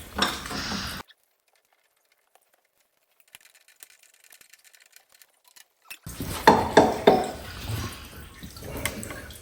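Clinks and knocks of metal parts being handled, with dripping liquid, broken by about five seconds of dead silence. The clatter comes back loudly about six seconds in.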